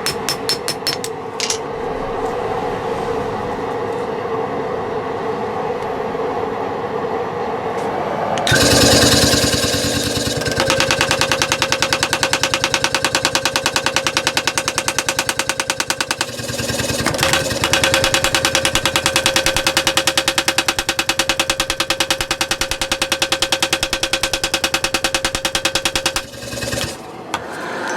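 Power tool running on the knife's metal blade: a steady hum after a few sharp taps, then from about eight seconds a louder, fast, even buzzing pulse that runs until just before the end.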